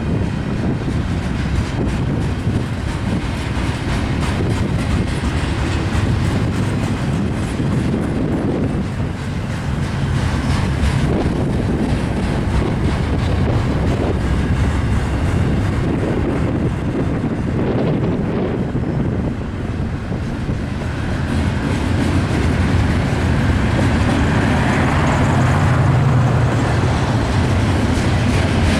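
Freight train cars rolling past with a steady low rumble, their wheels clicking over rail joints. A deeper hum builds near the end.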